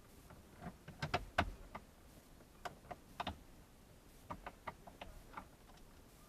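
Light, irregular clicks and taps of plastic dash trim and hand tools being handled as the car's dashboard panels are refitted, in three short flurries.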